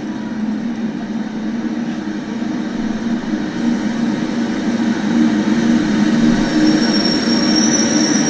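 Passenger train rolling into a station along the platform, a steady low rumble that grows louder. A thin, high, steady squeal comes in near the end.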